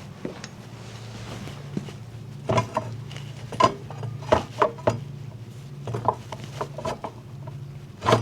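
Metal tools and parts clinking and clanking in a run of irregular knocks while the motorcycle's front wheel and brake hardware are worked on, over a steady low hum.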